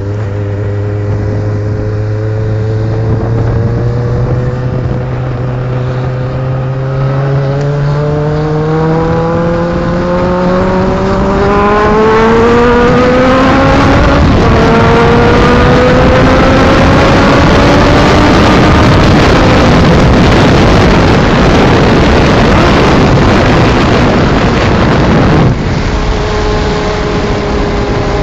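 Car engine with a loud exhaust accelerating: its note climbs steadily, drops and climbs again around halfway as it changes gear, runs loud and rough, then falls suddenly near the end and settles to a steady drone.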